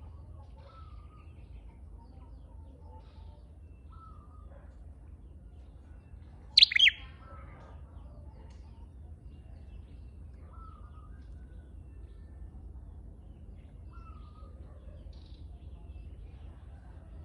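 Flowerpecker lure call: faint short calls every few seconds, with one loud, sharp double call about six and a half seconds in.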